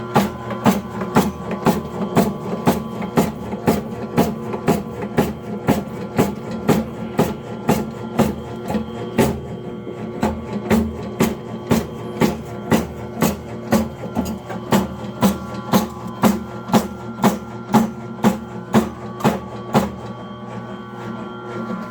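Motor-driven cutting machine running with a steady motor hum, its blade striking in an even rhythm of about two strokes a second; the strokes stop about two seconds before the end while the hum goes on.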